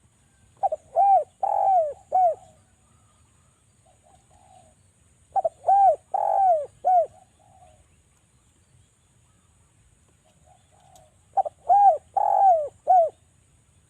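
Derkuku (Sunda collared dove) cooing: three phrases about five seconds apart, each a quick run of four or five low coos that drop in pitch at the end. It is a bird-keeper's lure call, used to set other derkuku calling.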